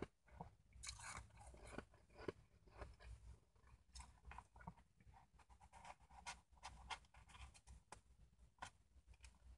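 Faint, close-up crunching and chewing of a mouthful of shaved ice: an irregular run of small crackles and clicks.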